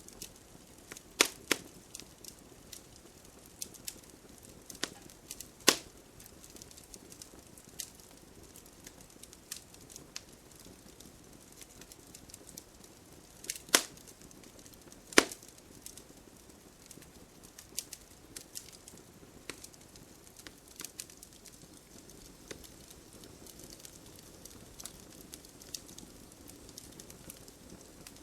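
Campfire burning, wood crackling with scattered sharp pops over a low hiss; the loudest pops come about a second in, around six seconds in, and twice near the middle.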